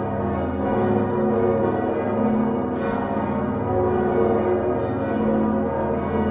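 Many large swinging church bells of the Utrecht Dom tower, hung on straight yokes, ringing together in a dense, overlapping peal; the deep hum of the biggest bell sounds under the higher bells. New strikes fall irregularly, about one a second.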